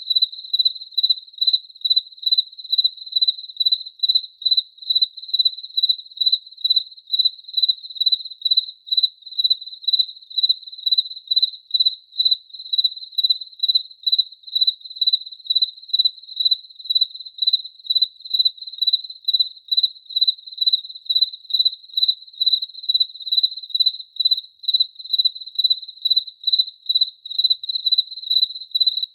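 A single cricket chirping steadily in a regular rhythm of about two high, pure-toned chirps a second.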